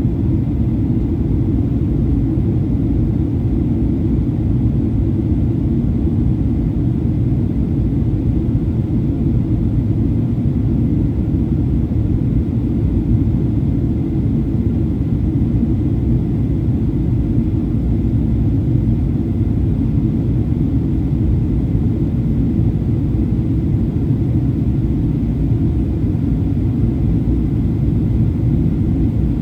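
Steady low cabin rumble inside a Boeing 737-800 in flight, the mix of its engines and airflow past the fuselage, even throughout with no distinct events.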